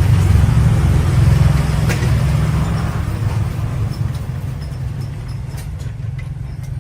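An engine running with a low, pulsing rumble, loud at first and gradually easing off.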